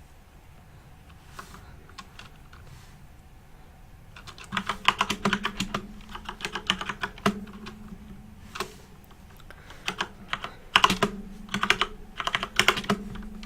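Typing on a flat, backlit computer keyboard: a few scattered key taps at first, then quick runs of keystrokes from about four seconds in, a short lull, and more rapid runs near the end.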